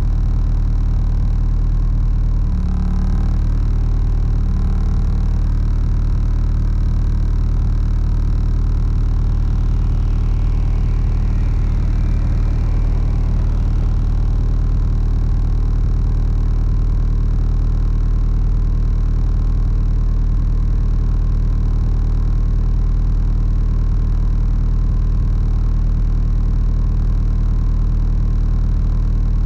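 Honda Prelude four-cylinder engine idling steadily after a cold start, heard through a custom 3-inch exhaust with a Greddy muffler, with a supercharger fitted.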